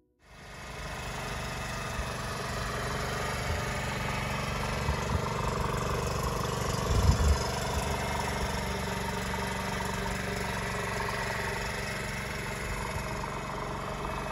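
Small four-stroke single-cylinder engine of a 1993 Honda Monkey Baja idling steadily, with a brief louder knock about seven seconds in.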